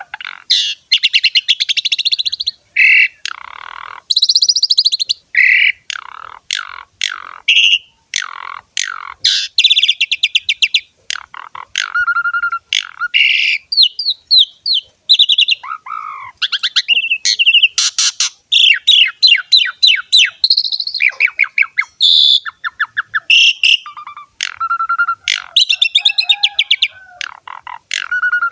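Asian pied starling singing a long, unbroken song of varied phrases: rapid chattering trills, clear whistles, sliding notes and harsh squawks following each other with hardly a pause.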